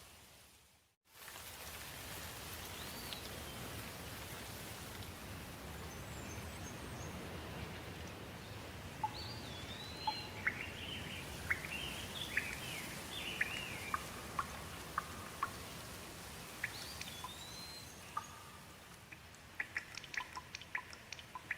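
Steady rain falling, with birds chirping over it. The sound cuts out briefly about a second in, and near the end a quick run of separate sharp drips stands out.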